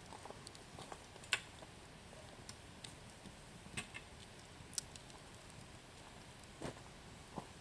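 Wood bonfire crackling: scattered sharp pops and snaps over a low, steady hiss, with one louder pop about a second and a half in.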